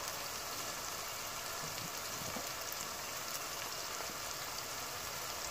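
Onions, tomato, ginger and garlic frying in oil in a cooking pot: a steady sizzle with a few faint crackles.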